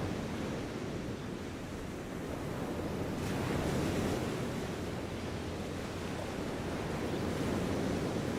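Steady low rushing city ambience, a dense hiss and rumble with no distinct events, swelling slightly and growing brighter about three seconds in before easing back.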